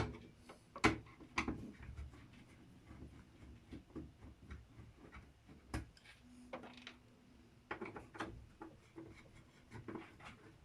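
Scattered sharp clicks and light knocks of tools and parts being handled while an LCD TV is taken apart, with a brief low hum a little past the middle.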